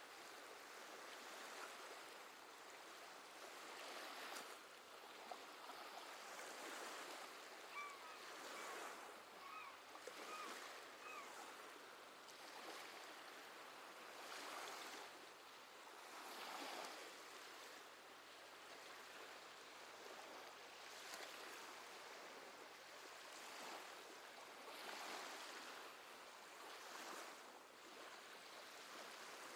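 Gentle sea waves washing in, with soft swells every few seconds. A seabird gives about five short calls in a row, about a third of the way through.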